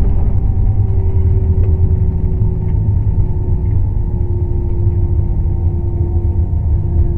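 Cabin noise inside an Airbus A321-200 rolling on the ground after landing: a heavy low rumble with a steady engine tone that slowly sinks a little in pitch.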